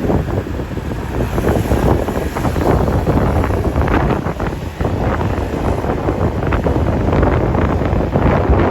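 Wind buffeting the microphone: a loud, rough low rumble broken by many crackles.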